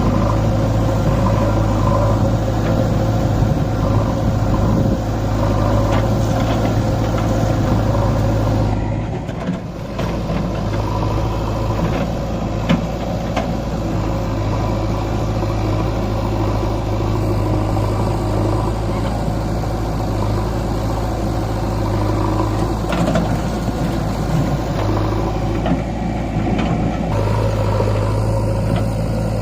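Tractor diesel engine running steadily, with a brief dip and change in its sound about nine seconds in.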